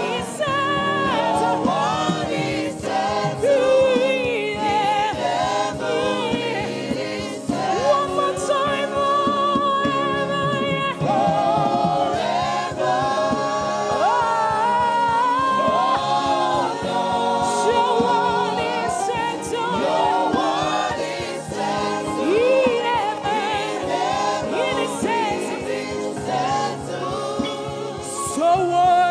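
Gospel worship music: several voices singing together with vibrato over a steady instrumental accompaniment.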